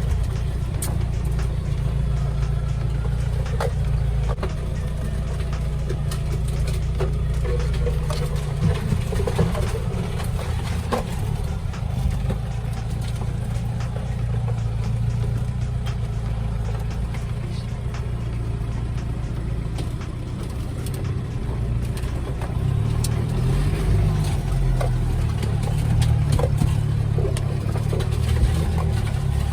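Off-road vehicle's engine running at low, changing revs, with scattered knocks and rattles from the vehicle working over rough ground; the engine note rises in the last few seconds.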